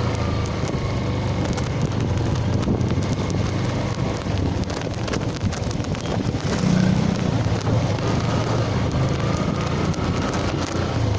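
Yamaha FZ-S motorcycle's single-cylinder engine running steadily at riding speed, under wind rushing over the microphone. The engine note gets louder for a few seconds around the middle.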